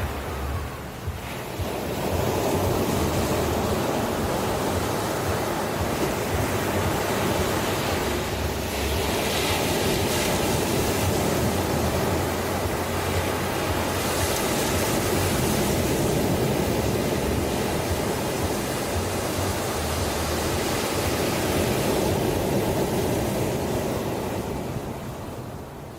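Ocean waves: a continuous wash of surf that swells about two seconds in, holds, and eases off near the end.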